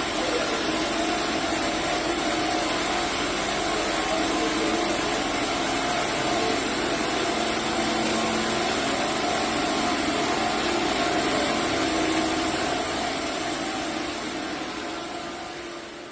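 Sawmill saw running steadily, a loud even machine noise with a constant hum and a high whine, fading out over the last few seconds.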